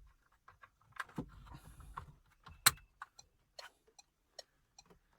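Scattered plastic clicks and rattles of car dashboard wiring connectors and trim being handled and plugged in, with one sharp click about halfway through.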